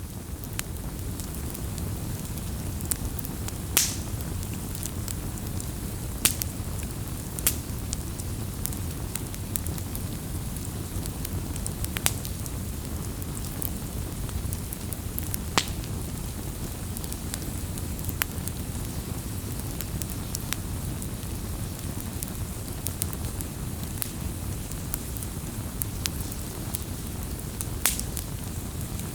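Wood campfire burning: a steady low rush of flame with irregular sharp crackles and pops of burning wood, the loudest about four seconds in and near the end.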